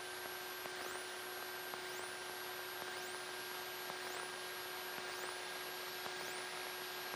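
Steady hiss and hum in a light aircraft's intercom audio, with no one keying the mic. Faint short rising whines repeat about every three-quarters of a second over the hiss.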